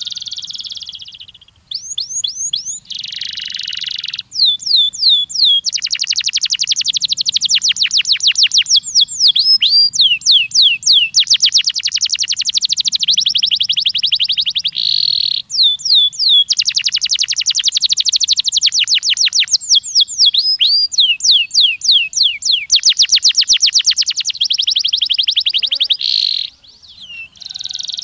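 Domestic canary singing a long, loud song of rapid trills: fast runs of repeated notes, sweeping whistles and buzzy rolls, one phrase after another with only brief breaks.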